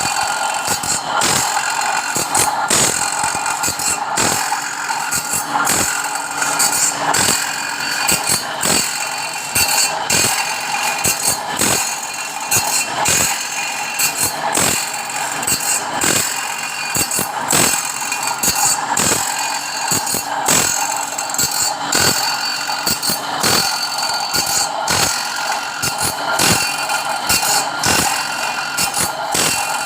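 Machinery running steadily in a sawmill saw shop: a constant high whine with frequent irregular clicks and rattles.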